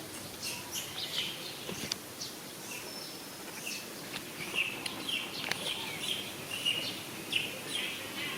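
Birds chirping: many short, high chirps at varied pitches, thickest in the second half, over steady outdoor background noise with a few sharp clicks.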